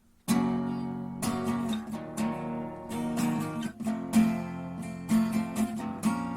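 Music: an acoustic guitar strumming chords, starting suddenly about a third of a second in after a moment of silence.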